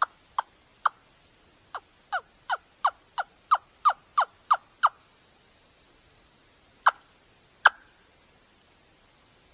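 Turkey yelps: a run of about thirteen short, falling yelps at roughly three a second, then a pause and two more single yelps near the end.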